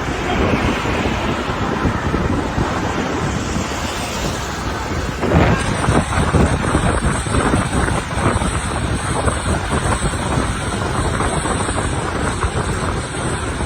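Wind buffeting the microphone of a camera riding along on a moving bicycle, over a steady rush of road and traffic noise. A thin, high steady tone joins about five and a half seconds in.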